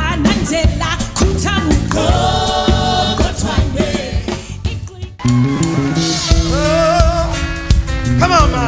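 A band with a drum kit plays behind a singer holding long notes with vibrato. About five seconds in the music briefly drops away, then the band and voice come back in.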